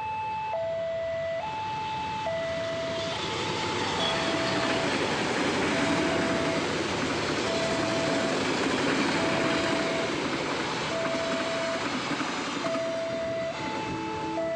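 A level crossing's electronic warning alarm sounds two alternating tones, high then low, while a train passes. The train's rumble and wheel noise swell in the middle and drown the high tone, and the two-tone alarm comes back clearly near the end.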